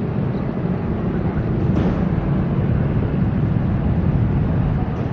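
Passing train running past with a steady loud rumble.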